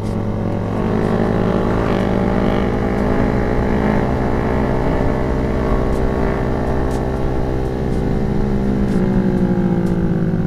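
Motorcycle engine running under way. Its pitch rises steadily as the bike speeds up over the first half, then eases back down, with wind rumble on the microphone underneath.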